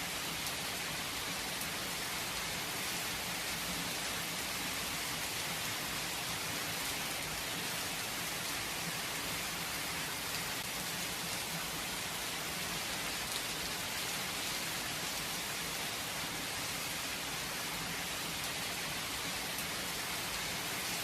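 Steady, gentle rain falling, an even hiss of drops without thunder.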